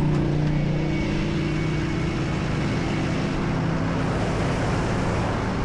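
Tow truck engine running with a steady low hum that gives way about halfway through to an even rushing noise.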